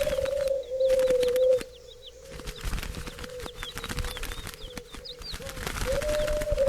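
Bird sounds: a long, low, slightly wavering call lasting about a second and a half at the start, which comes again near the end. Quick high chirps and fluttering like wing beats run throughout.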